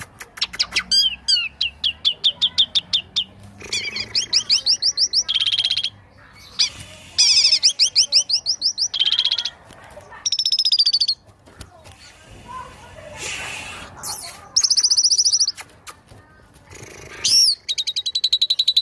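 Small songbirds' fast, high trills and rapid repeated 'shot' phrases, spliced into a compilation of loud bursts a second or two long with brief gaps, switching abruptly from one bird's phrase to another's.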